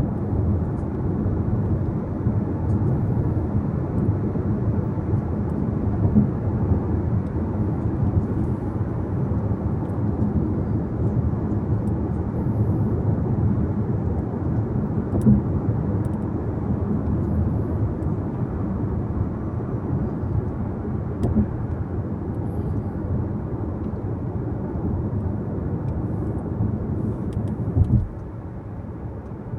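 Car driving along the road: a steady rumble of tyre and engine noise. Near the end there is a short thump, after which it turns quieter.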